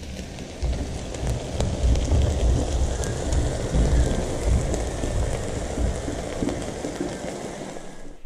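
Meat, ham and eggs sizzling and spitting on a hot flat-top barbecue plate: a dense crackling hiss with many small pops, over a low fluctuating rumble.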